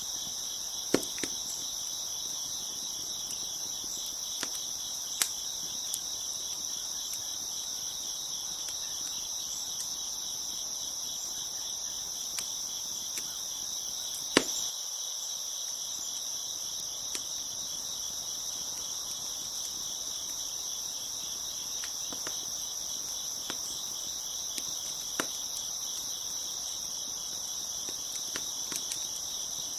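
Crickets chirping in a steady, high chorus, with scattered sharp pops and crackles from a wood fire; the loudest pop comes about halfway through.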